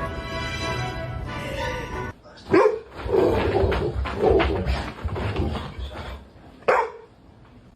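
Music with held tones, then after a sudden cut about two seconds in, an animal's loud calls, twice, with scuffling noise between them.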